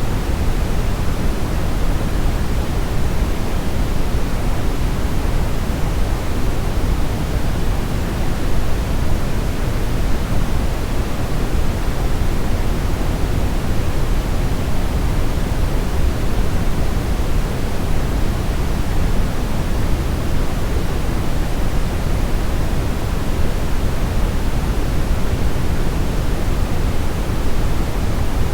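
Brown noise: a steady, even hiss with most of its weight in the deep low end, unchanging throughout.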